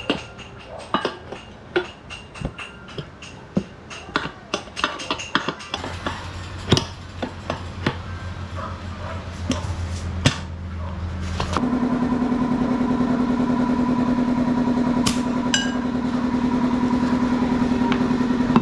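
Repeated metal knocks and clicks of tyre work on a motorbike wheel, then about eleven seconds in a small motor starts and runs steadily with a fast, even rhythm.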